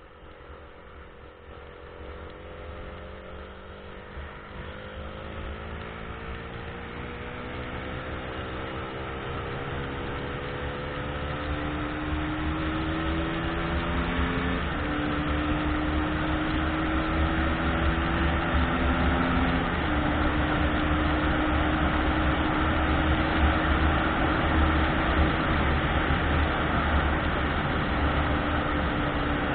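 Car gaining speed: a hum that rises slowly in pitch, with a couple of small steps, over a steady low road rumble that grows louder over the first twenty seconds and then holds.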